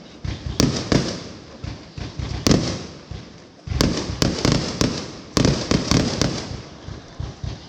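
Fireworks going off in a fast series of sharp bangs, each with a short echoing tail, coming in clusters with a brief lull about three seconds in.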